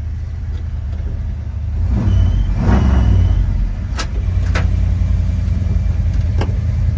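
Ford 351 V8 engine of a 1977 F-150 pickup running with a steady low rumble, getting louder about two seconds in as the truck sets off. A few sharp clicks sound over it later on.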